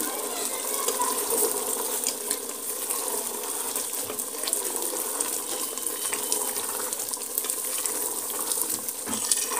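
Black chickpea masala sizzling in ghee in an aluminium pressure-cooker pot, with a steady hiss and light scraping from a wooden spoon stirring it.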